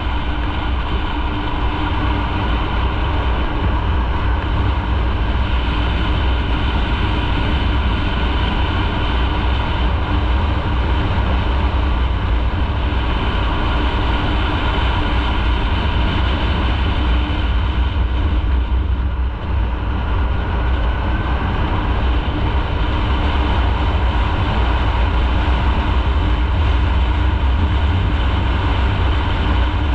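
Motorcycle running at a steady cruise while riding, a continuous low rumble with a steady engine note and a brief dip about nineteen seconds in.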